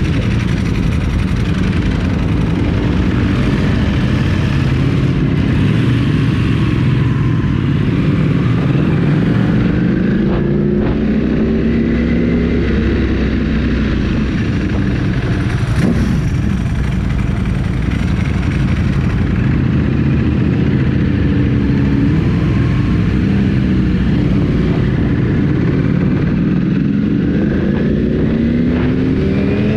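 Superbike engine running under way with heavy wind rumble, its pitch rising and falling as the throttle opens and closes, and a long rising rev near the end as it accelerates.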